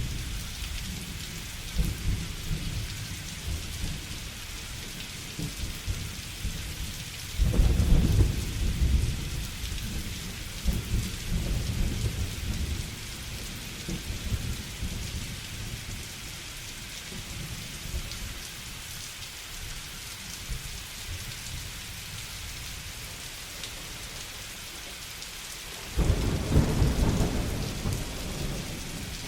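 Steady heavy rain with rolling thunder: a loud deep rumble of thunder about seven seconds in, lighter rumbles after it, and another loud roll near the end.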